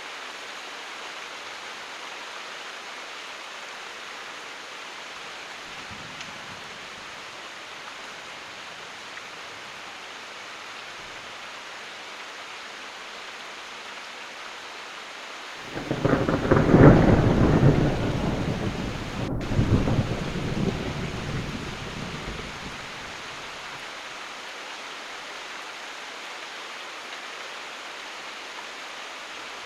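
Steady rain falling, with a peal of thunder about halfway through that breaks in suddenly, swells a second time and rumbles away over several seconds.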